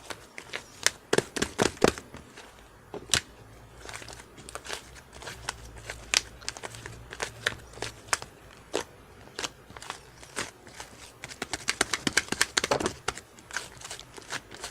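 Hands squishing and stretching slime: a string of sharp, wet clicks and pops from trapped air. They come thickest in quick runs about a second in and again near the end.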